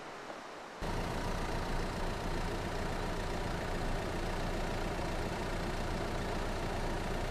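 A car engine running steadily, coming in abruptly just under a second in after a faint hiss.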